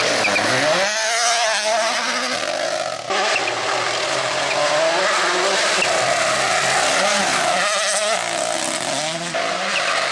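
Rally car engine revving hard, its pitch climbing and dropping again and again through gear changes, with an abrupt change in the sound about three seconds in.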